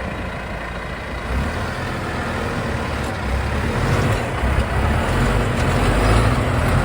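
Big farm tractor's engine working under load, its level rising and falling and loudest near the end.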